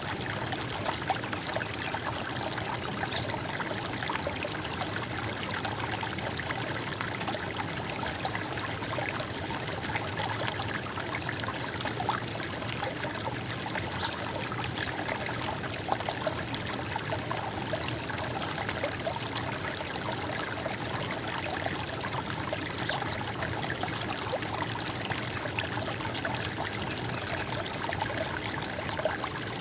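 Running water trickling and splashing steadily, like a small stream, with many small splashes and no letup.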